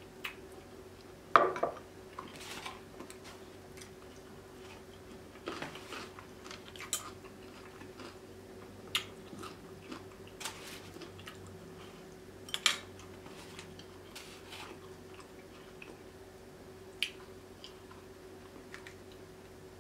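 Close-miked mukbang eating of a seafood boil: chewing and wet mouth smacks on shrimp and lobster, with scattered sharp clicks of a spoon and bowls, the strongest about a second and a half in. A faint steady hum runs underneath.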